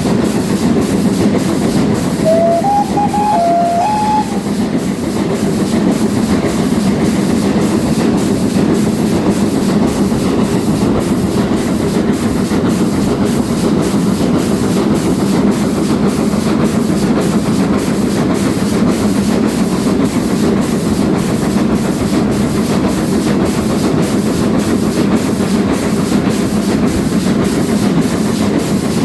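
Steam-hauled train behind GWR Castle class 4079 Pendennis Castle running steadily along the line: a continuous heavy rumble with a regular beat about twice a second. About two seconds in, a brief few-note whistle-like phrase sounds over it.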